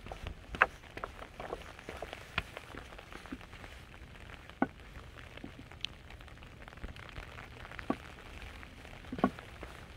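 Rain falling, a steady soft patter with single heavier drops landing close by as sharp, irregular taps, the loudest about half a second in and near the end.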